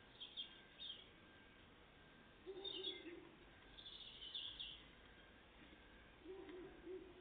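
Faint, short chirping calls of tits, several in the first half. A low, wavering call comes twice: about two and a half seconds in and again near the end.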